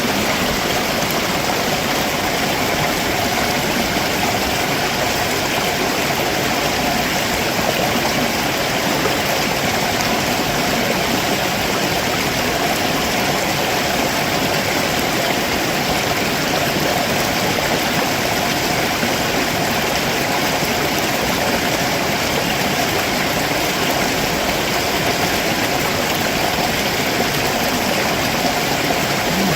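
A rocky stream rushing and splashing steadily over stones below a waterfall, making a continuous full rushing noise.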